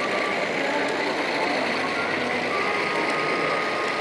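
Steady hubbub of a crowd talking in a large hall, with thin high whining tones coming and going over it.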